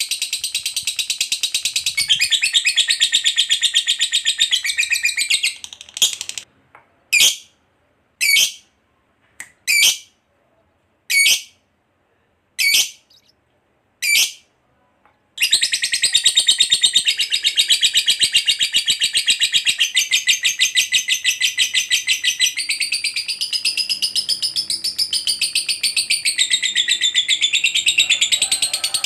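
Lovebird's long 'ngekek' chatter: a fast continuous rattle of high chirps. About six seconds in it breaks into a handful of single short calls with gaps between, then the rapid rattle resumes at about fifteen seconds and runs on.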